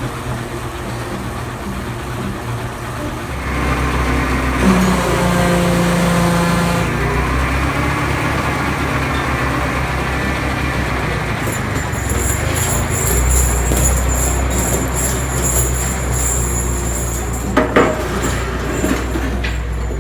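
Ford 641 tractor engine running after a battery boost. It grows louder and deeper about three and a half seconds in and again about thirteen seconds in, with a couple of sharp knocks near the end.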